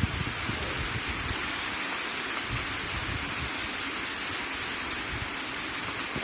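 Heavy rain falling in a steady hiss, with an uneven low rumble underneath.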